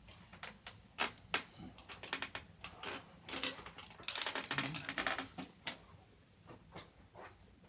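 A run of irregular clicks and taps, with a denser stretch of rustling and scraping about three to five seconds in.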